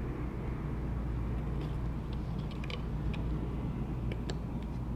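Faint, light clicks of small parts and tools being handled while a bracket is fitted back inside an iPod touch, heard over a steady low hum.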